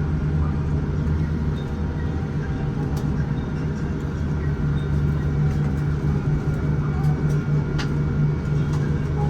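Steady low hum and rumble inside the cabin of a Boeing 787-9 moving on the ground after landing, with a few faint clicks.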